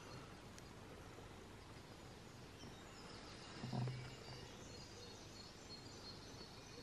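Faint distant birdsong: thin high chirps over a quiet background, with one brief low sound a little under four seconds in.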